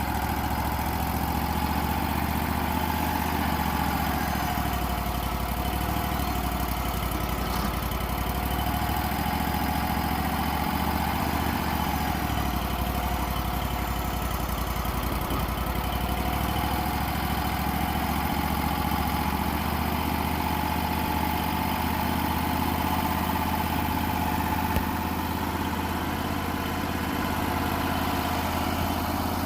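Wood-Mizer LT35 portable band sawmill running steadily, its engine droning with a wavering whine above it.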